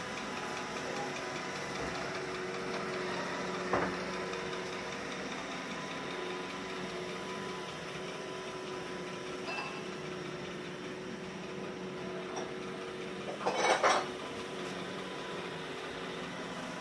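Roomba robot vacuum running with a steady whirring hum. A sharp knock comes about four seconds in, and a louder brief clatter of knocks comes near the end.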